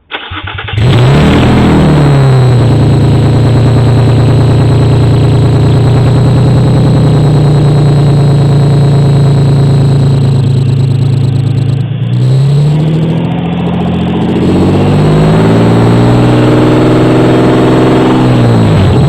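Nissan VQ25DD 2.5-litre V6 running with no exhaust fitted, loud and unmuffled. It fires up right at the start, flares and settles to a steady idle, and is then revved twice, the second rev slower and longer and dropping back near the end.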